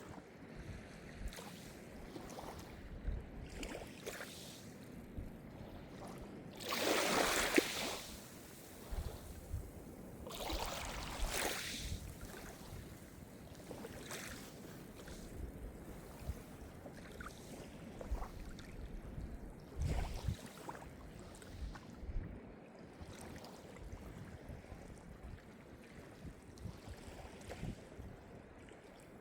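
Calm Mediterranean surf: small waves washing in and drawing back over a steady background wash. One louder wave breaks about a quarter of the way in, and another a few seconds later.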